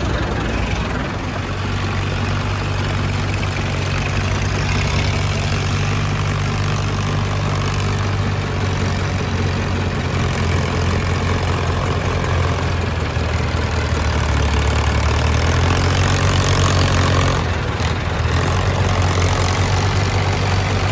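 Old tractor's engine running steadily with a low throb, growing louder about two-thirds of the way through and dipping briefly a little after.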